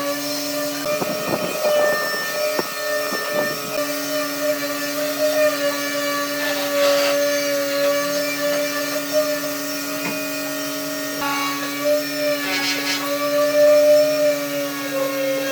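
An electric power tool's motor running steadily with a humming whine whose pitch sags slightly now and then, as if under load. Scraping and knocking noises come in short spells: about a second in, around the middle, and again near the end.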